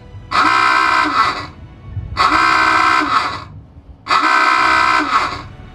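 Submarine surfacing alarm: three loud horn blasts, each about a second and a half long, with short gaps between them. It is the signal for the boat to surface.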